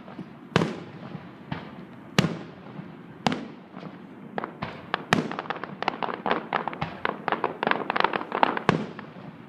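Aerial fireworks exploding: separate bangs with echoing tails a second or so apart, then a dense crackle of many quick pops about halfway through, with another loud bang near the end.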